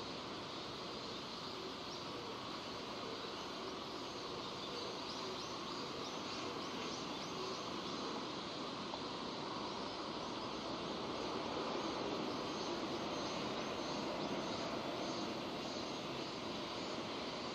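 Steady rain falling, an even hiss that swells slightly past the middle.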